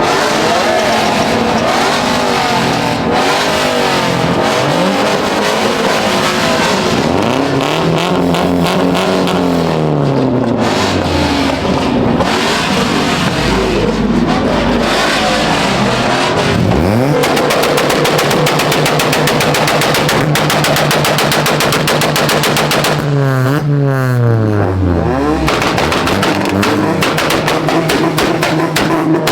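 Performance car engines revved hard several times, pitch climbing and falling. About two-thirds of the way through there are a few seconds of rapid, machine-gun-like stuttering crackle, followed by a long falling rev.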